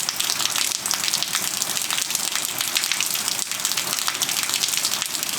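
Steady rain falling, with many separate drops striking throughout.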